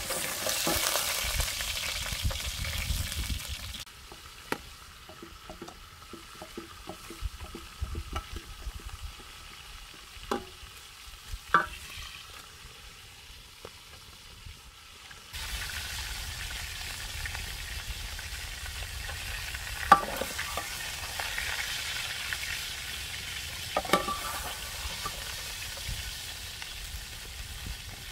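Food sizzling and frying in a cooking pot over a campfire, quieter for a stretch in the middle. Scattered short clicks and knocks sound throughout.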